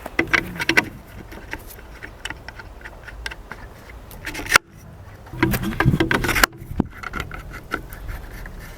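Handling noises: small clicks, rustling and light knocks of things being moved about, in two louder bursts, each cut off abruptly.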